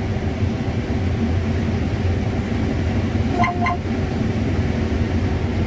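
Combine harvester running steadily under load in corn, a constant low drone. About three and a half seconds in, two short electronic beeps sound from the machine's monitor.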